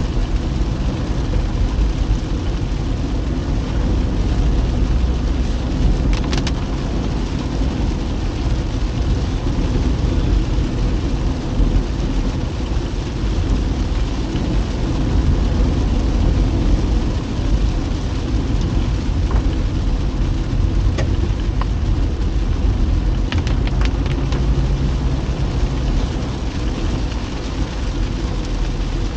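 A car driving in the rain: steady engine and road noise with rain on the car, and a few brief clicks about six seconds in and again near the 24-second mark.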